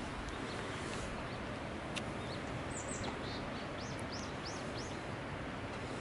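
Small birds chirping over a steady outdoor background hiss, with a quick run of four arched, rising-and-falling chirps about four seconds in.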